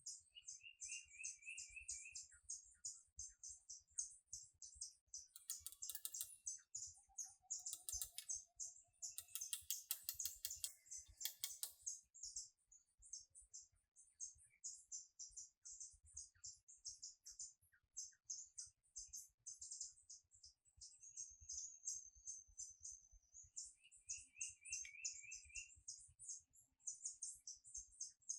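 Birds chirping and calling, with a short trill near the start and again near the end. Underneath, a soft, irregular patter of rain drops.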